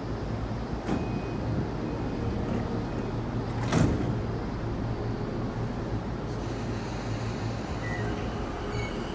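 Electric commuter train standing at a platform: a couple of short beeps, then the sliding doors slam shut with a sharp thud about four seconds in, over a steady low hum. Near the end a rising electric motor whine sets in as the train starts to pull out.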